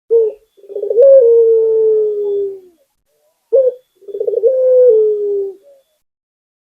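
Local puter dove cooing twice. Each call is a short note, then a stuttering start that runs into a long, slowly falling coo.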